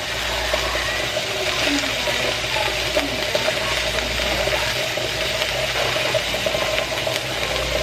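Gochujang-glazed chicken pieces frying in a pan on a gas burner: a steady sizzling hiss, with a steady hum underneath.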